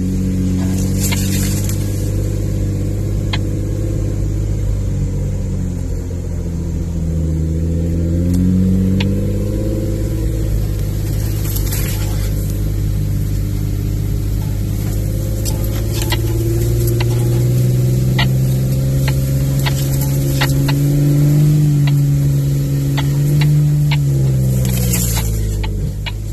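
Vehicle engine heard from inside the cabin while driving slowly on a rough dirt trail, the revs dipping and rising with the throttle and falling away near the end. Scattered sharp clicks and knocks sound over it.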